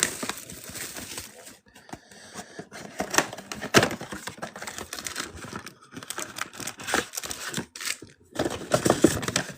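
Plastic wrapping crinkling and tearing as a trading-card mega box is unwrapped and opened by hand, in irregular crackles with a few sharper snaps.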